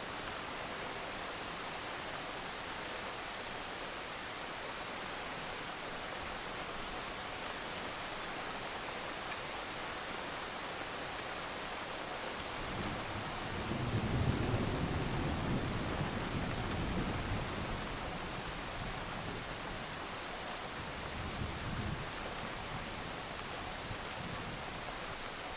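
Steady rain falling, with a low rumble of thunder rolling in about halfway through and fading over several seconds, and a shorter, weaker rumble a few seconds later.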